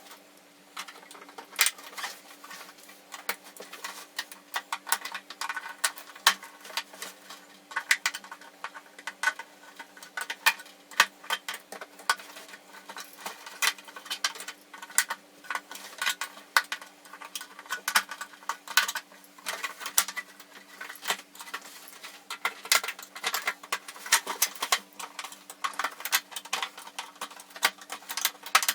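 Dense, irregular clicking, tapping and small plastic rattles of hand tools and TV cover parts being worked, over a faint steady low hum.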